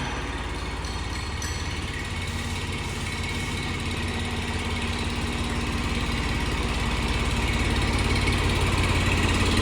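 An engine running steadily with a fast, even pulse, growing gradually louder.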